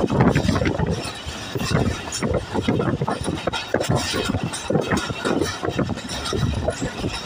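Passenger train running at speed, heard from aboard: the wheels rumble and clatter on the track, with many irregular knocks and rattles.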